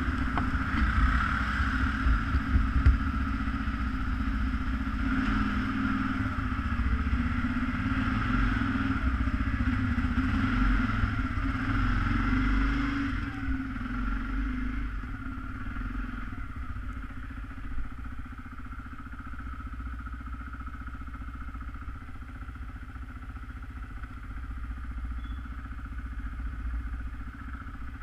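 ATV engine running while the machine is ridden, with rattling and clatter from the vehicle. The engine gets quieter about halfway through.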